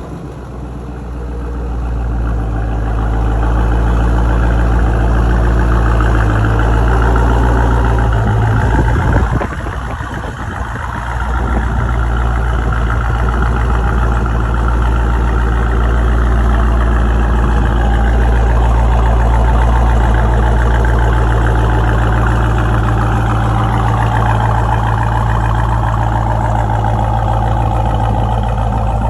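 Jeep Grand Cherokee Trackhawk's supercharged 6.2-litre V8 idling loudly through a muffler-deleted exhaust just after start-up. The idle settles over the first few seconds and dips briefly about nine seconds in, then holds steady.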